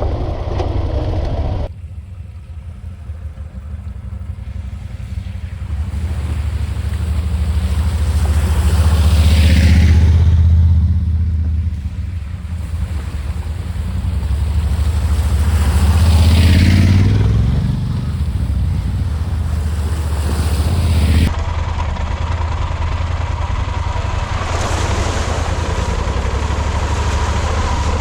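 Motorcycle engine running while riding, under a steady rush of wind noise; the engine sound swells and falls back twice. The sound changes abruptly about two seconds in and again about three quarters of the way through.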